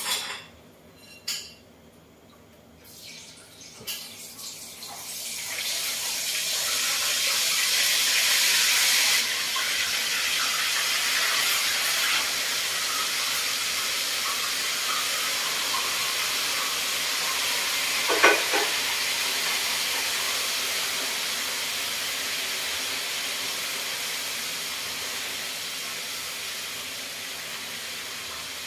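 Food sizzling in hot oil in a pan on the stove: the sizzle starts about five seconds in, is loudest for a few seconds, then settles into a steady hiss that slowly eases. A few knocks early on and one sharp knock about eighteen seconds in.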